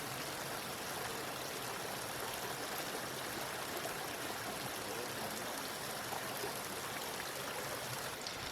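Steady rushing of running water, an even, unbroken wash of sound.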